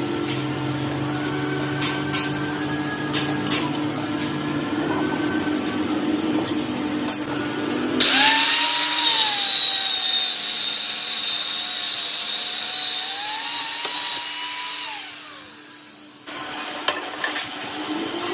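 A power tool starts about halfway through with a loud high-pitched hiss and whine, runs for several seconds, then winds down. Before it, a steady machine hum with a few sharp clicks.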